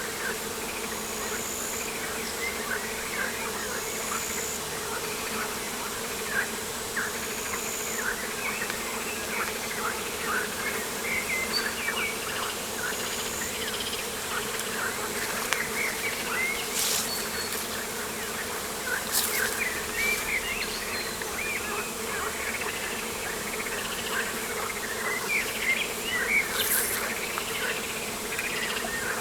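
Outdoor ambience: a steady low buzz of flying insects under many short, overlapping bird chirps, with a few brief clicks or rustles in the second half.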